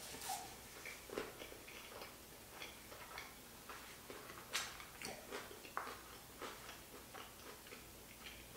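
A person chewing a tuna-and-tamago sushi roll with the mouth closed: soft, irregular mouth clicks and smacks, with one sharper click about four and a half seconds in.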